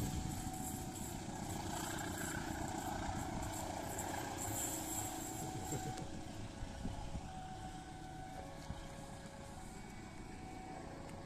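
Passenger train rolling away on the rails, its wheels clattering over the track as the last coach draws off. The clatter thins out and fades after about halfway.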